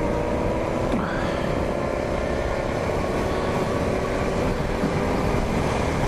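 BMW G 650 GS Sertao's single-cylinder engine running at a steady road speed, with strong wind buffeting the microphone as a low rumble underneath.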